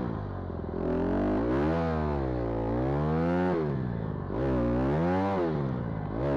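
Vehicle engine revving up and down again and again, its pitch rising and falling in waves about every second and a half, with a light rattle underneath.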